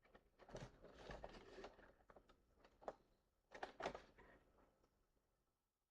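Faint rustling and light clicks of a small plastic action figure and its cloth cloak being handled, in two short spells.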